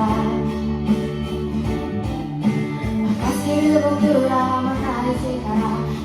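A woman singing a Japanese pop ballad over an instrumental backing track.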